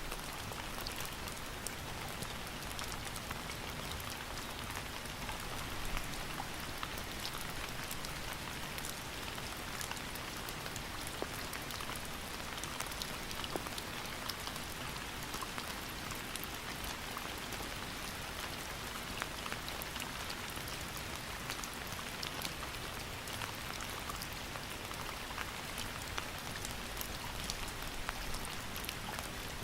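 Steady rain falling, with a continuous hiss and many individual drops pattering on a surface.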